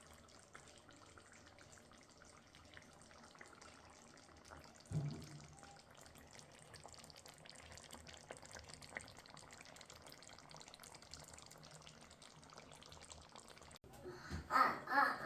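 Faint kitchen noise: a steady hiss with light crackling, and a single knock about five seconds in. Near the end a child's voice breaks in.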